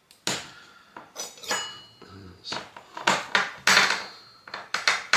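Small metal brake-caliper parts clinking and knocking on a hard work surface as they are handled: about a dozen irregular sharp taps, some ringing briefly.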